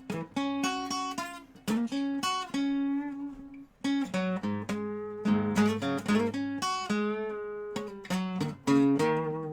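Dobro resonator guitar playing an instrumental blues passage, with plucked single notes and chords and a brief drop-off about three and a half seconds in.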